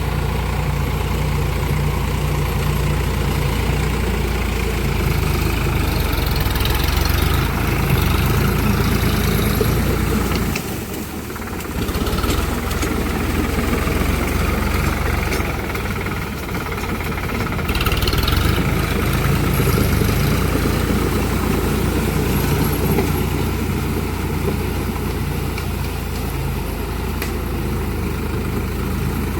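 Sonalika tractor's diesel engine running steadily, its sound dropping away briefly about a third of the way in and again a little later.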